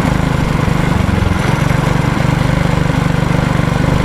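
Mini bike's small engine running steadily while being ridden, its rapid firing pulses heard as a low drone; the engine note shifts briefly about a second in.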